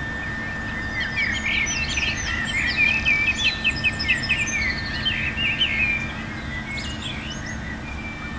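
Songbirds singing: a busy run of quick chirps and trills that thins out after about six seconds, over a low background rumble and a faint steady high tone.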